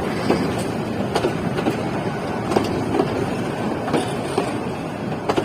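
Local passenger train rolling in at a station: a steady rumble with sharp, irregular clacks of the wheels over rail joints.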